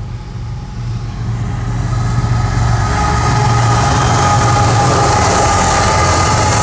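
CSX diesel freight locomotives passing close by, their engines rumbling and growing louder over the first three seconds, then holding steady with a high whine over the top.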